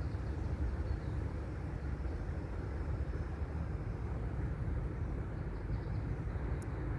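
Steady low rumble of distant motor noise, with no distinct events.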